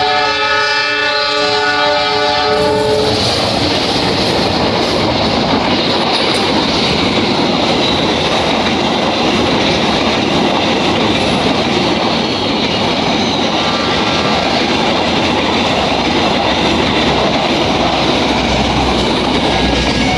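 Diesel locomotive horn sounding a chord of several tones for about three seconds, then a train running past close by, its wheels rumbling and clattering over the rails in a steady rush.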